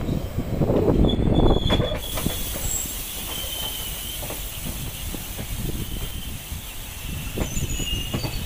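Passenger train coaches running on the track, heard from a coach window: wheels rumbling and knocking over the rails, louder for the first two seconds, then a steadier hiss with faint high wheel squeals and a few clacks near the end.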